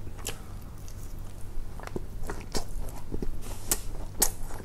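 A person biting and chewing a breaded chicken nugget, with irregular small crunches and mouth clicks.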